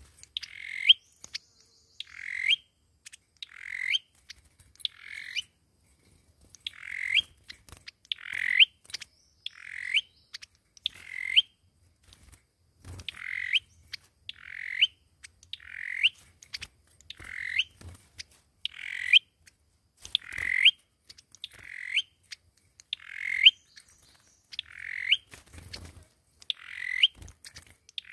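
Sâu dừa bird calling over and over, as used for a trapping lure: a short call a little more often than once a second, each ending in a quick upward flick. There is a brief pause about twelve seconds in.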